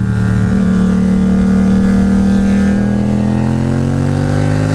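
Yamaha MT-07's parallel-twin engine through an aftermarket Akrapovič exhaust, pulling in one gear with the revs rising steadily under acceleration.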